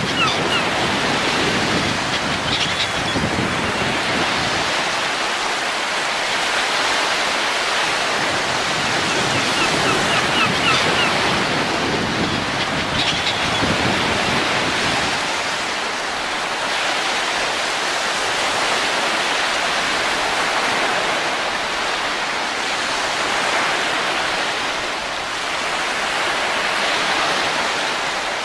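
Wind blowing steadily, its rush swelling and easing slowly, with a few faint high chirps now and then.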